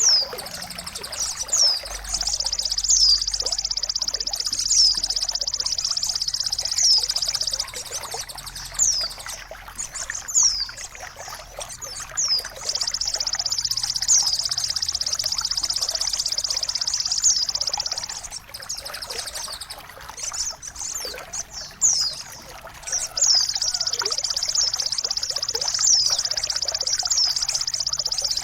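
Songbird calls over trickling water: sharp, high, descending chirps, with three long, high, rapidly buzzing trills of about five seconds each.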